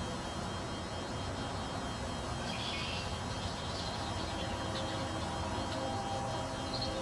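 Steady outdoor background noise picked up by a camera's built-in microphone, with faint high chirps about two and a half seconds in and again near the end.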